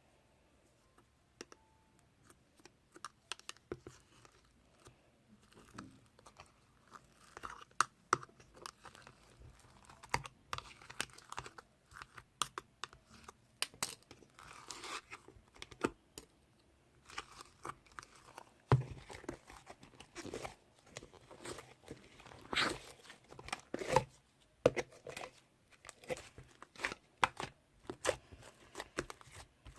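Slime being squished, stretched and poked by hand, giving irregular sticky pops, clicks and crackles. These are sparse at first and grow busy after a few seconds.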